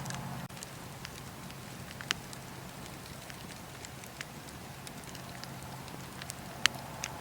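Wood fire crackling in a fireplace: a steady low rumble and hiss of burning, with scattered sharp pops, the loudest one a little before the end.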